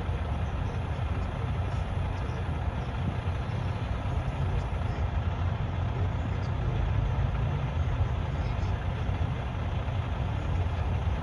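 Semi truck's diesel engine idling: a steady low rumble that holds without change.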